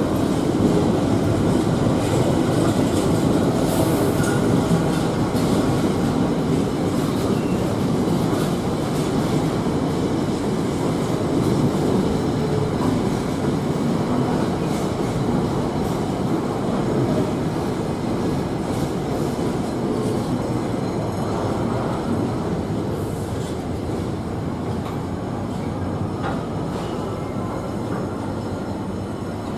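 Container freight train's flat wagons rolling steadily past at close range, a continuous rumble of wheels running on the rails.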